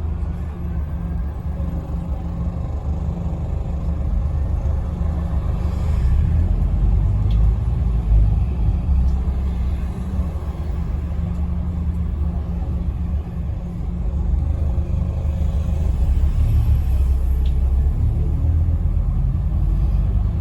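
Engine and running noise of a Scania N270UD OMNICity bus heard from inside the passenger cabin. A steady low rumble grows louder about six seconds in and again about sixteen seconds in.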